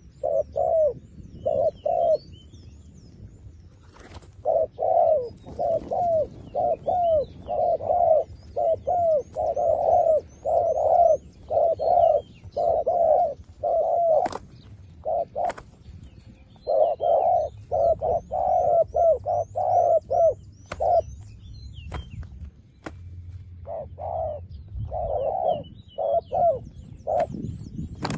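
Doves cooing in repeated runs of short coos, with pauses between the runs. A high, faint chirping repeats throughout, and a few sharp clicks are heard.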